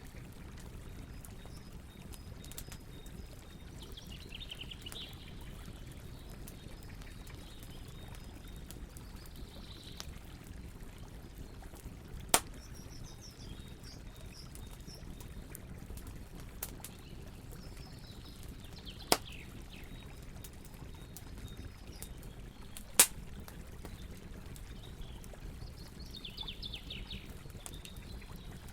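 Wood campfire crackling steadily, with three loud sharp pops spaced several seconds apart. A bird chirps briefly a few times in the background.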